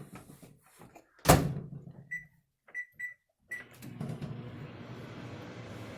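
Microwave oven door shut with a thunk, followed by four short keypad beeps as the time is set. The microwave then starts running with a steady hum about four seconds in.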